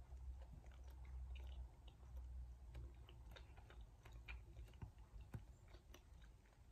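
Faint chewing with the mouth closed, a mouthful of soft chicken liver adobo, heard as small scattered clicks.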